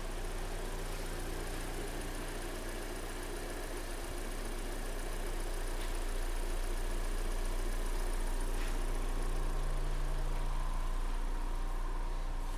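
Kia Sportage 3's freshly rebuilt G4NA 2.0-litre four-cylinder petrol engine idling steadily while it warms up on break-in oil.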